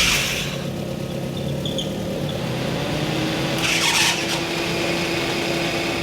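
Car driving, with steady engine and road noise and a brief hiss about four seconds in.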